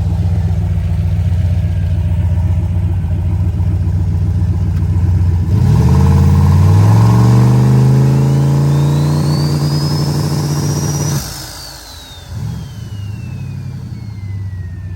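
Turbocharged aluminum LC9 5.3 LS V8 idling lumpily, then revved about five and a half seconds in and held at steady high rpm on the two-step as the turbo's whistle climbs, building boost. The throttle drops suddenly near eleven seconds, and the turbo whistle winds down over several seconds while the engine falls back to idle.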